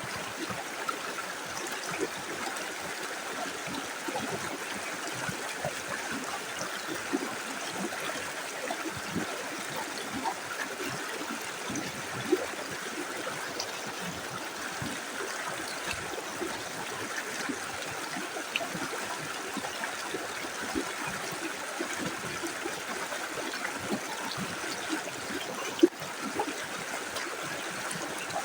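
A small river flowing steadily, with many small splashes and ticks from the water running over stones, and one sharp click near the end.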